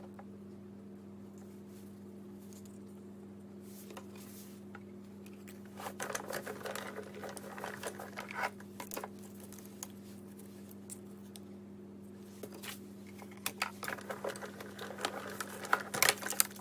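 Card stock and paper pieces being handled: rustling and crinkling about six seconds in, then scattered light clicks and taps near the end, over a steady low hum.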